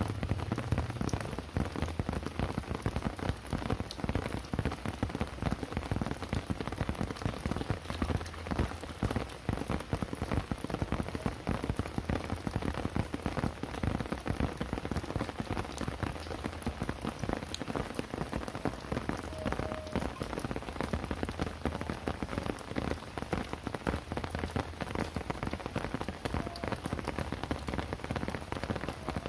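Steady heavy rain, a dense patter of raindrops hitting surfaces.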